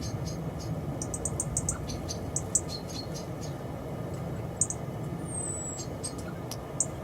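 Small birds chirping: scattered short, high chirps and clicks, with one falling whistle about five seconds in, over a steady low rumble.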